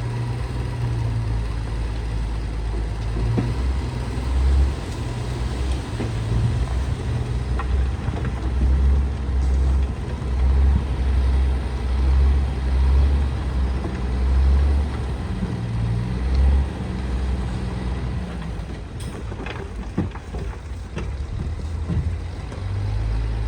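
Heavy diesel engine of earthmoving machinery running, its low rumble swelling and easing over and over, with a few sharp clanks near the end.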